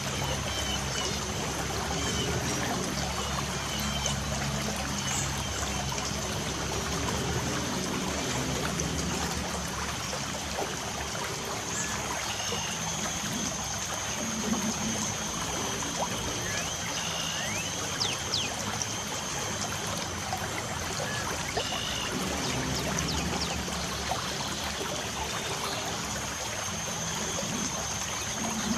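Light rain falling steadily, a dense patter of small drops, with a thin steady high tone above it. A few short falling bird chirps come about two-thirds of the way through.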